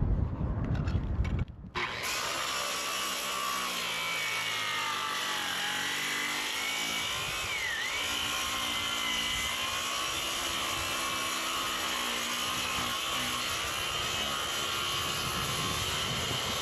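Wind buffeting the microphone for the first second or two, then a reciprocating saw (Sawzall) running steadily, cutting through wooden roof rafters, its pitch wavering a little as it works.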